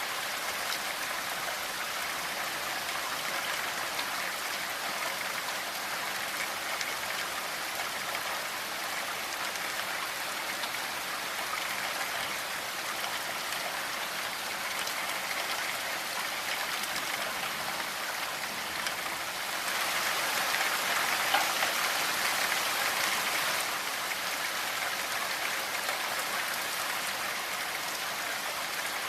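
Steady rainfall with patter of drops on a surface, growing heavier for a few seconds past the middle before settling back.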